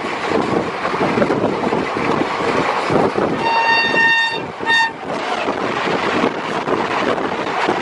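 Rumble and wind rush of a moving Indian passenger train. About three and a half seconds in, a locomotive horn sounds one long steady blast, then a short toot. Then an oncoming Humsafar Express starts rushing past on the next track.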